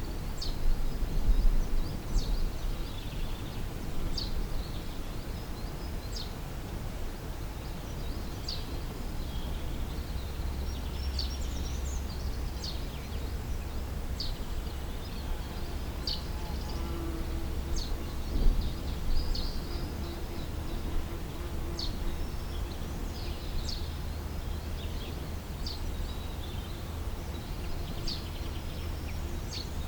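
Field ambience: a bird repeating short, high chirps every couple of seconds over a steady low rumble, with a faint steady hum joining about halfway through.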